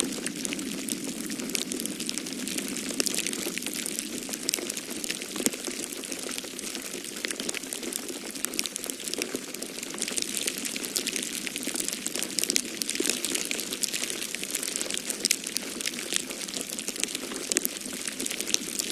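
Wood fire crackling in a fireplace: a dense, irregular run of small pops and snaps with a few louder ones, over a steady low rush of snowstorm wind.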